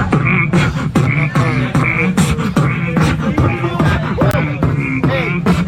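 Human beatboxer laying down a steady hip-hop beat with the mouth, punchy kick and snare hits with short bending bass and vocal tones between them, as a live beat for a freestyle rap battle.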